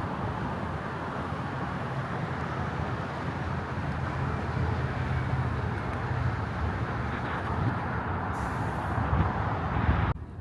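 Steady rumble and rushing noise of a moving vehicle, cutting off abruptly near the end.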